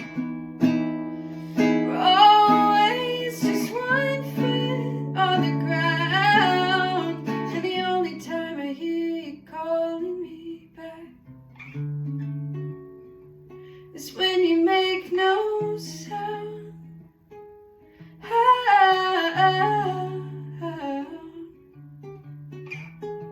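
A song played on acoustic guitar, strummed and picked in held chords. A woman's singing voice comes in phrases about two seconds in, again around fourteen seconds, and around nineteen seconds.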